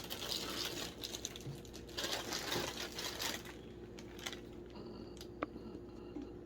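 Crinkling and rustling of cereal packaging being handled, a dense crackle for the first three seconds or so that then dies down, with one sharp click a little past the five-second mark.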